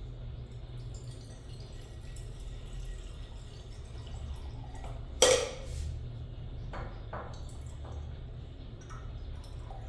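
Water being filled into a drip coffee maker's glass carafe, with one sharp, loud clink about five seconds in and a few lighter knocks after it.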